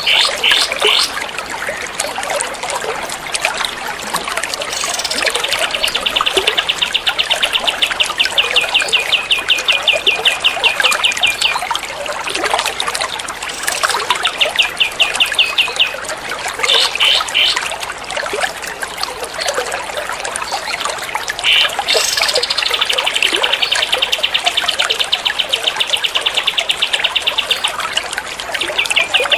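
Songbird's rapid 'tembak' trill: long runs of sharp, evenly repeated high notes, about ten a second, several seconds each, broken by short bursts. Under it, water trickles steadily throughout.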